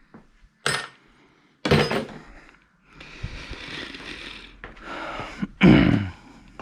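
Metal tools and small parts clattering and clinking, with a few sharp knocks and a stretch of rummaging in between.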